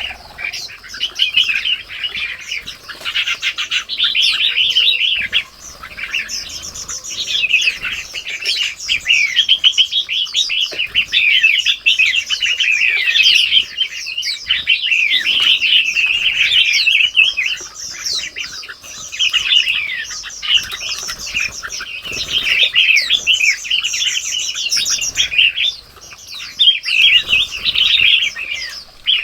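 Dense chorus of small birds chirping and twittering, with many quick overlapping high-pitched calls and short lulls now and then.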